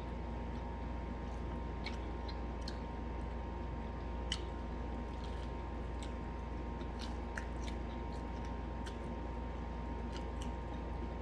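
Chewing and biting into fried chicken and fried plantain: small crisp crackles and clicks scattered throughout, with one sharper crack about four seconds in, over a steady low hum.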